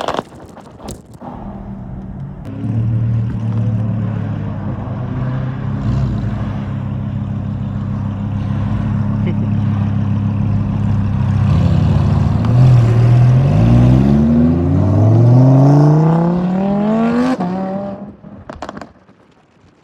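A performance car's engine running close by, then revving and accelerating away. Its pitch climbs in a few short rises and then one long rise, and the sound falls away about two seconds before the end.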